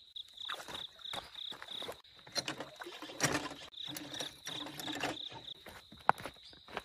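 Insects chirping in a steady pulsing rhythm, about four chirps a second, over knocks, clatter and rustling as a fishing platform and gear are shifted by hand, with one sharp knock about six seconds in.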